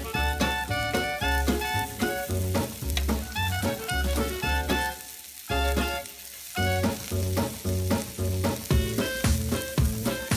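Background music with a steady bass beat, over raw shrimp sizzling in oil on a hot grill pan as they are laid down with tongs. The music drops out briefly about halfway through.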